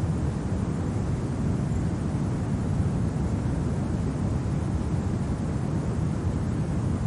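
Steady low rumbling wind of a winter storm ambience, an even noise with no gusts or whistles.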